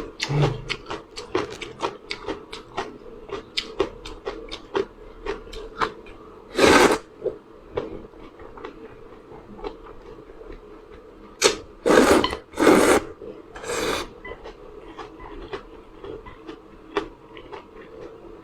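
Close-miked eating sounds of spicy noodles: a steady stream of small wet chewing clicks, with four longer, louder slurps of noodles about seven seconds in and around twelve to fourteen seconds in.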